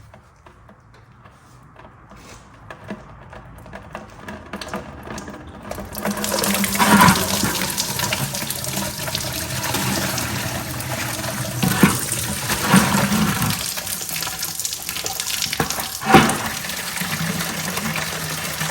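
Coolant, plain distilled water, pouring out of the radiator's bottom hose into a drain container. The pour starts about six seconds in after some light handling, then runs steadily, with a few knocks from the container or tools.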